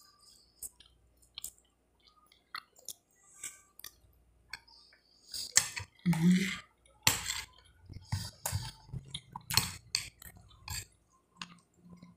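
Close-miked chewing and wet mouth sounds of someone eating fried chicken, rice and pirão, with light clinks of a metal spoon on the plate. It is sparse and faint at first, then louder and busier from about five seconds in.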